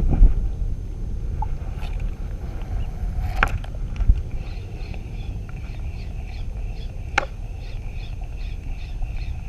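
Strong wind buffeting the microphone in a steady low rumble, with two sharp clicks and a faint high chirp repeating about three times a second in the second half.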